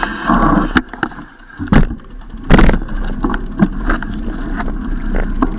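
Rumbling noise from a moving bicycle ride, with several sharp irregular knocks and rattles, the loudest about two and a half seconds in.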